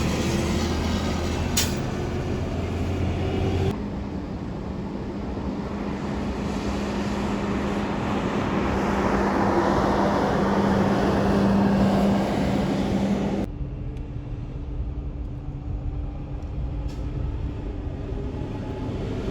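Garbage truck diesel engines running, in three shots cut together with abrupt changes about four and thirteen seconds in. The middle shot swells louder before cutting off. There is a sharp click about a second and a half in.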